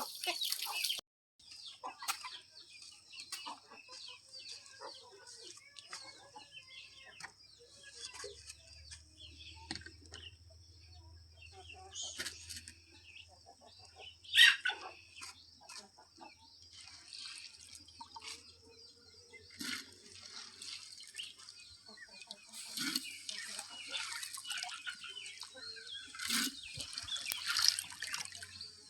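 Chickens clucking, with scattered small clicks and knocks and one brief, louder sharp sound about halfway through.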